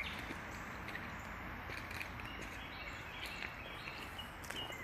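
Steady outdoor background noise with a bird chirping a few times in the second half.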